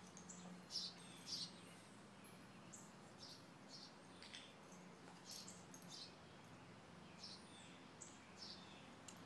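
Birds chirping in short, scattered high calls, a few of them quick arching whistles, over a faint steady low hum.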